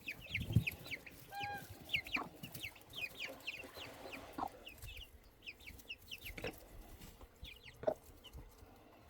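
Young chicks peeping in quick, high, falling chirps, with a few clucks from the mother hen. The peeping is busiest for the first few seconds and thins out after that.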